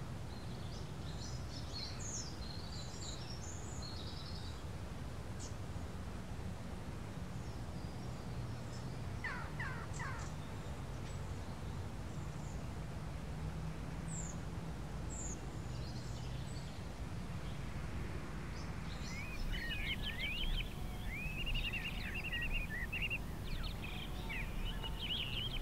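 Birds chirping and singing over a low, steady background rumble, the birdsong busiest in the last several seconds.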